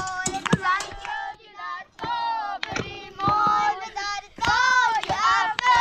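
High-pitched children's voices calling and vocalising in drawn-out, sing-song phrases, with sharp clicks and knocks among them.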